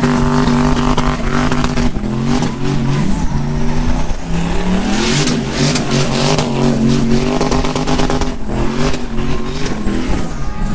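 Truck engine running and revving, its pitch holding steady, then climbing and dropping back several times.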